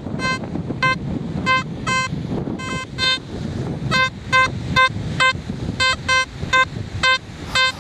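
XP Deus metal detector in its Deus Fast program giving short, same-pitched target beeps, about two a second and sometimes in quick pairs, as the coil is swept back and forth over a buried target. Wind is on the microphone.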